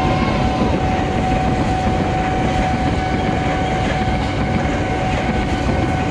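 Tokyo Metro 6000-series electric commuter train rolling past close by: a steady rumble of wheels on rail, with a thin high tone held steady through it.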